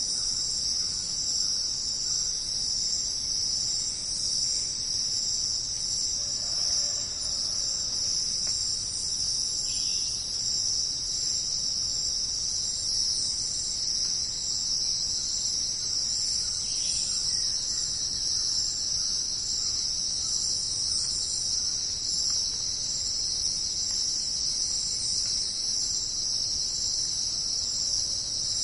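A steady, high-pitched chorus of crickets and other insects in jungle ambience, with no thunder heard; a couple of faint short calls come through about a third and just over half-way in.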